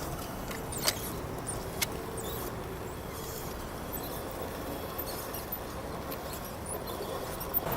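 Radio-controlled scale crawler driving slowly over forest ground: a faint whine from its small electric motor and gearbox, with two sharp clicks about one and two seconds in.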